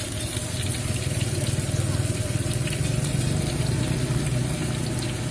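Tapioca batter for cilung frying in hot oil in a wok: a steady sizzle with fine crackling, over a low steady rumble.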